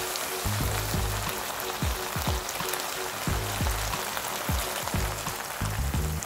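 Diced vegetables and black bean paste sizzling and crackling as they stir-fry in a hot pan, under background music with low bass notes.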